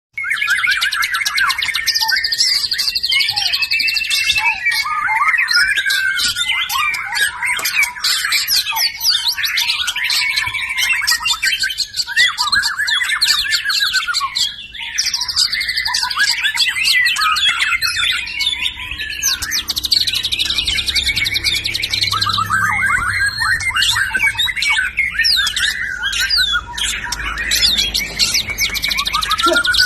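White-rumped shama singing continuously: loud, warbled whistled phrases alternating with fast runs of rapidly repeated high notes, the rapid-fire 'tembakan' bursts prized by shama keepers.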